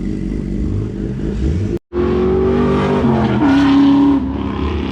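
Low, steady car engine rumble. After a momentary dropout, a car engine is heard held at high revs, its pitch falling about a second later as it goes past, then fading.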